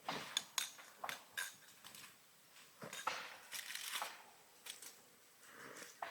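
Cooking utensils and cookware being handled: a run of short, sharp clicks and light knocks, irregularly spaced.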